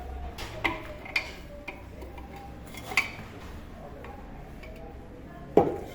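Hand tools clicking and tapping on a pressure cooker's metal handle fittings: a handful of sharp separate clicks, then one heavier knock near the end.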